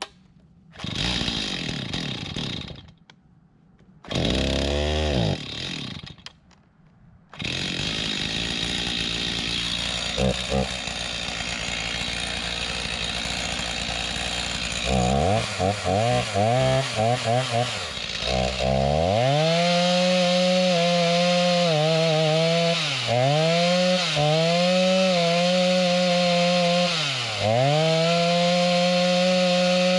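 Stihl MS290 two-stroke chainsaw firing briefly twice and dying, then catching and idling. It is blipped a few times, then held at full throttle cutting wood, the engine note dipping several times as it bogs under load.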